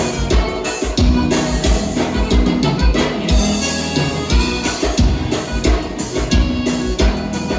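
Live band playing gaúcha dance music, an instrumental passage with sustained melody over a steady drum beat.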